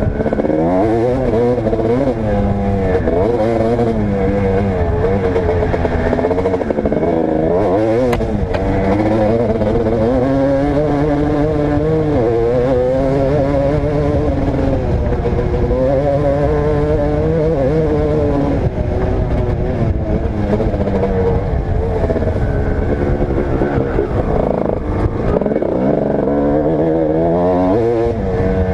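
Motocross dirt bike engine revving up and down again and again as the rider opens and closes the throttle.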